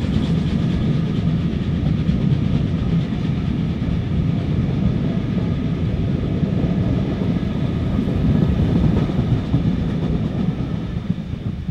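Steam-hauled passenger train running past, a continuous heavy rumble of wheels on rail with clickety-clack, starting to fade near the end as it draws away.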